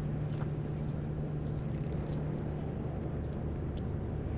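Steady low mechanical hum over outdoor city background noise, with a few faint light clicks.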